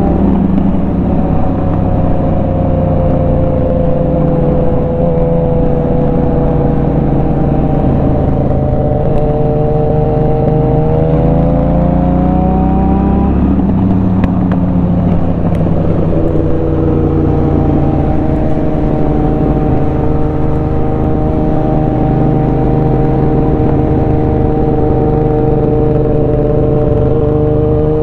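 Honda Shadow 750 V-twin engine running under way. The engine note sinks slowly, climbs for a few seconds as the bike accelerates, drops back at a gear change about halfway through, then holds a steady cruising pitch, over a low rush of wind and road noise.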